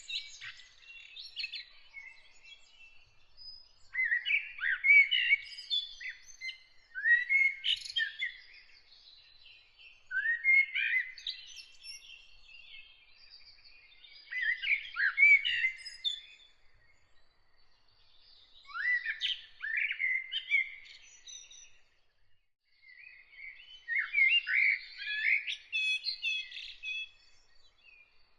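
A songbird singing in separate phrases, one every three to four seconds with short pauses between them. A faint, steady high note carries on underneath.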